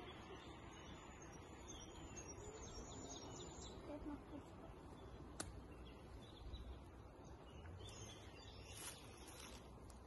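Quiet outdoor ambience with faint, high bird chirps, mostly in the first half, and one sharp click about five and a half seconds in.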